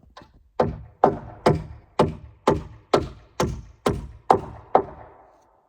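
Hammer driving nails into wooden floor joists by hand: about eleven sharp blows, roughly two a second, the last one ringing out near the end.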